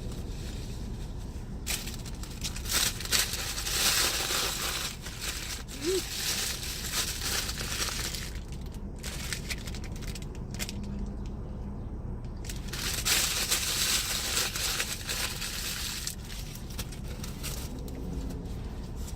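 Paper food wrappers and a bag being crumpled and crushed, in two long crackling spells.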